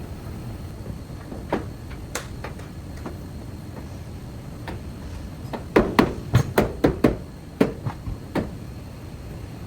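Scattered sharp knocks and taps, with a quick run of about eight louder knocks between about six and seven seconds in.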